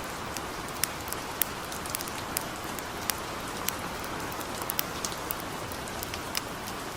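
Steady gentle rain hissing, with sharp irregular crackles and pops from a campfire scattered through it, a few a second.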